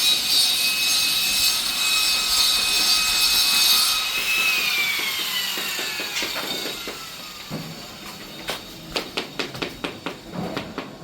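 Electric angle grinder cutting stone, switched off about four seconds in, its whine falling as the disc spins down. Then a run of light taps and clicks.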